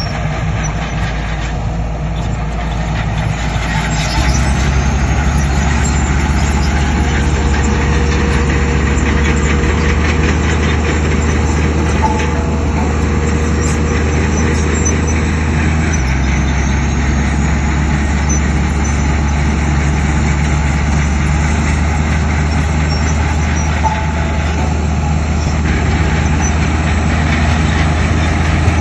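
Heavy diesel engines of earthmoving machinery running under load, rising in pitch about four seconds in and changing again about midway.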